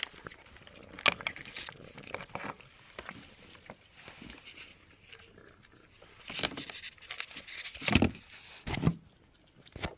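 Scattered light clicks and taps, with a few louder knocks about six, eight and nine seconds in.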